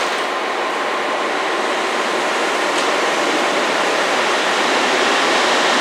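Electric passenger train, a red ÖBB locomotive hauling coaches, rolling past on a far station track: a steady rumble of wheels on rail that grows slightly louder toward the end.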